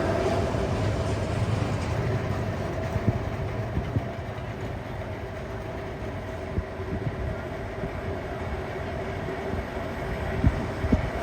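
Railway cars of a steam-hauled train rolling along the track: a steady rumble with a faint held tone and scattered sharp knocks from the wheels over rail joints, easing slightly in the first half.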